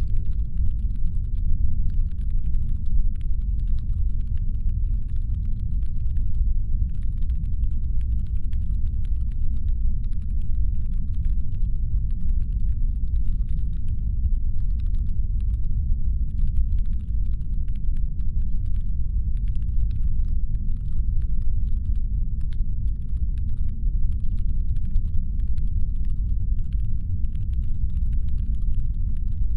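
Deep, steady brown-noise rumble meant as a spaceship's engine hum, with faint, irregular stretches of rapid fine clicking high above it.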